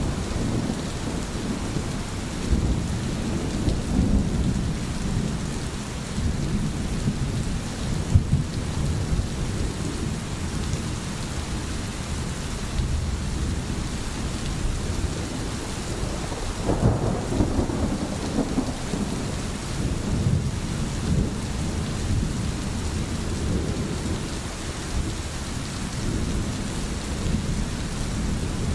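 Steady rain falling, an even hiss over a heavy low rumble that rises and falls, swelling near the start and again a little past halfway.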